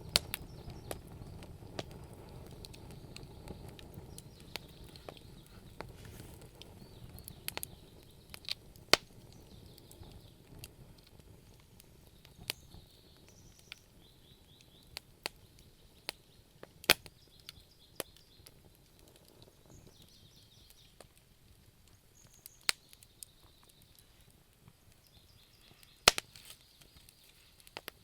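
Wood fire crackling in a fireplace: irregular sharp pops and snaps over a low rumble of burning that fades away during the first several seconds.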